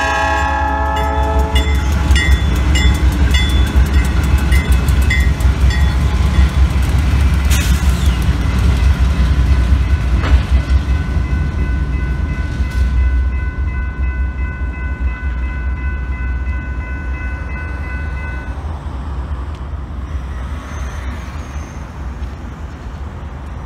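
GE diesel locomotives (B39-8E and B40-8W) passing over a road crossing: the horn cuts off about a second in, then heavy engine rumble with rhythmic wheel clicks over the crossing, fading after about 13 seconds. The crossing's General Signals Type 3 electronic bells ring and stop near the end.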